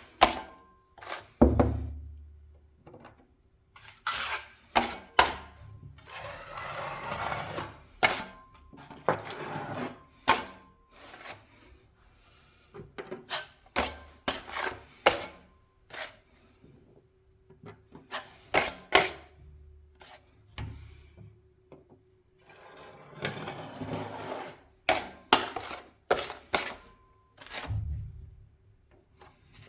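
Hand-tool work on a window reveal: irregular sharp knocks and taps, broken by several stretches of scraping, about two seconds each.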